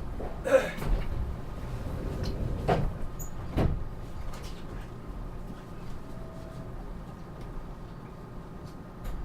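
Inside a 521-series electric train car: a low rumble, with sharp knocks and clunks about half a second, nearly three seconds and three and a half seconds in. The rumble eases after that.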